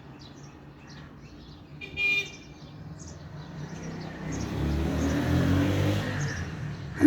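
A car passing by, its engine and tyre rumble swelling to loudest about five seconds in, then fading. A brief horn toot about two seconds in, and faint bird chirps.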